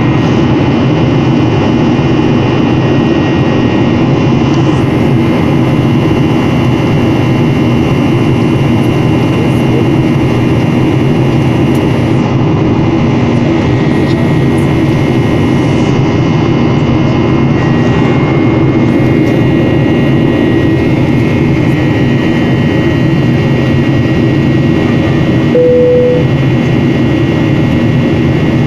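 Steady jet-engine drone and rush of air inside an airliner's cabin in flight, with a few steady high tones running through it. Near the end a single short tone sounds once.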